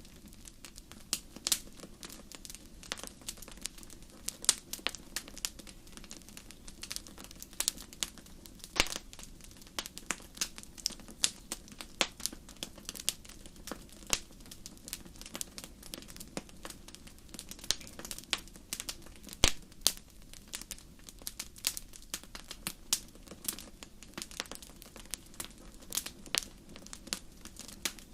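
Wood campfire crackling: irregular sharp snaps and pops, some much louder than others, over a faint steady low background.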